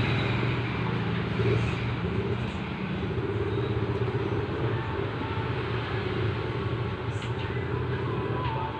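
Steady rumble and hum of a moving vehicle.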